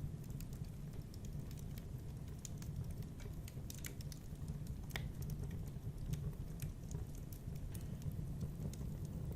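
Wood fire burning in a fireplace: a steady low rumble under irregular small crackles and pops, with one sharper pop about five seconds in.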